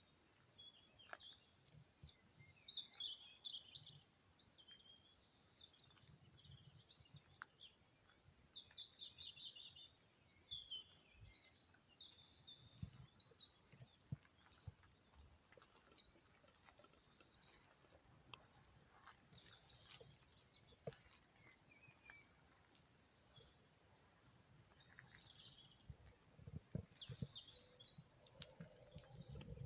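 Small birds chirping and twittering faintly, with many short calls and trills, over a faint low rumble that grows a little near the end.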